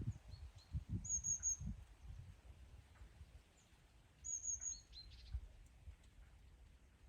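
A small songbird calling twice, about three seconds apart, each time a quick run of three high chirps followed by a couple of lower notes. Low wind rumble gusts under it during the first two seconds, then settles.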